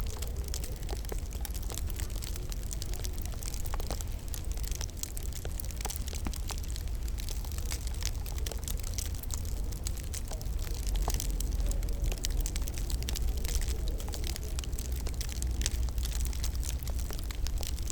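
Wood fire crackling in a fireplace: many small sharp pops at irregular moments over a steady low rumble and hiss.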